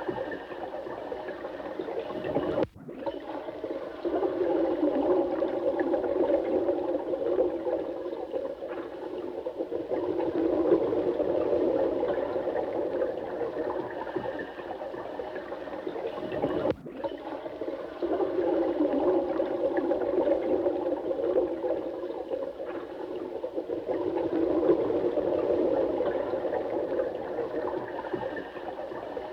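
Running water, a steady rushing and gurgling noise that swells and eases slightly. It cuts out for an instant twice, about 3 s in and about 17 s in.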